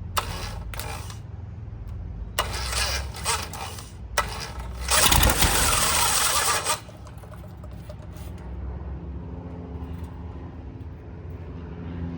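Rebuilt Lycoming O-290 aircraft engine being cranked over by its starter in several bursts, the longest and loudest about five seconds in, lasting under two seconds, then it stops; the engine does not keep running.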